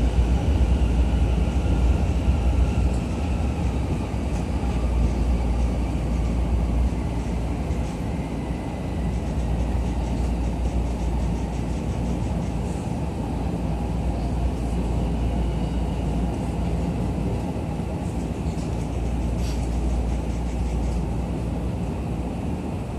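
Running noise inside a JR East E231-series commuter train car: a steady low rumble of wheels on rail, with a faint electric motor whine that falls in pitch in the first few seconds. The noise eases off a little as the train slows for the next station.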